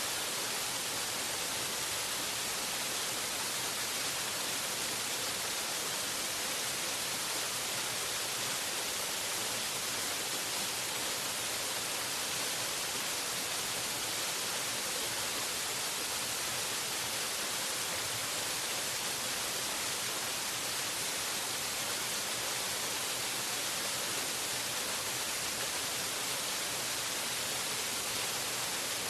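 Waterfall rushing steadily as an even, unbroken hiss, its energy high up with little low rumble.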